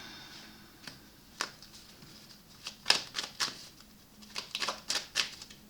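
Tarot cards being handled: a scattering of light, irregular clicks and taps, in two small clusters.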